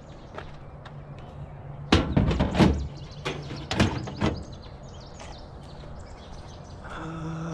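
A quick run of knocks and thuds about two seconds in, then three single knocks over the next two seconds: an object and its cardboard box being handled and set down. A short pitched sound comes near the end.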